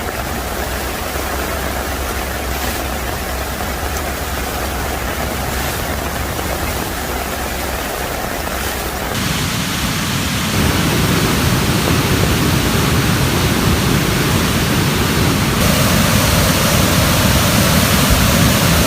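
Steady rushing noise of heavy rain and running floodwater. About nine seconds in it changes suddenly to a deeper, louder rush.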